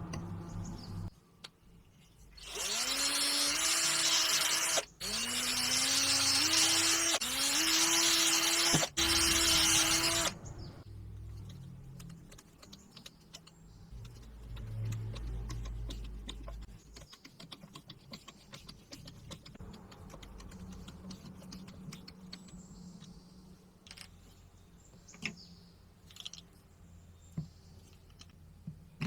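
Electric power tool motor run in three bursts, its pitch rising each time as it spins up, then stopping. After that, quiet handling with scattered clicks and taps.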